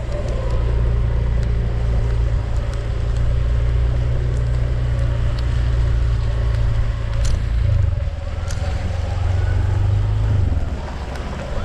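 A vehicle engine running steadily with a deep low hum, easing off about ten and a half seconds in.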